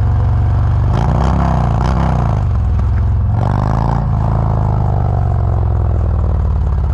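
Motorcycle V-twin engine idling, with the throttle blipped twice in quick succession about a second in, then revved higher once and let fall slowly back to idle.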